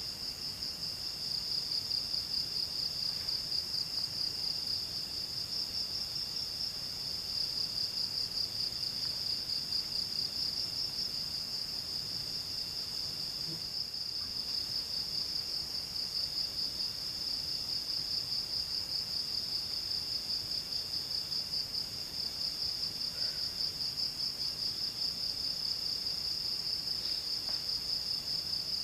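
Forest insects trilling: one high, rapidly pulsing trill without a break, and a fainter, lower trill that starts and stops every second or two.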